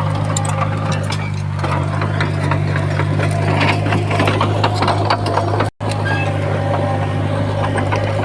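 Komatsu bulldozer's diesel engine running with a steady low drone, with frequent clanking and clicking of its steel tracks and blade. The sound cuts out for an instant about two-thirds of the way through.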